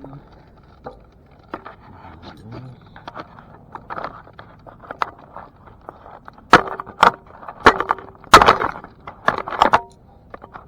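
Handling noise close to the microphone: scattered clicks and light knocks, then a run of sharper, louder knocks and scrapes in the last four seconds.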